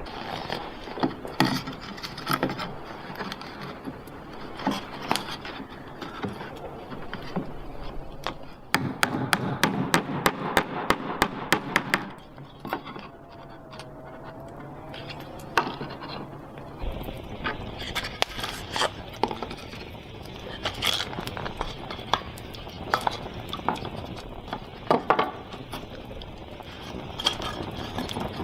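Scrapes, rubs and taps of objects being handled, with a quick run of evenly spaced clicks, about four a second, partway through.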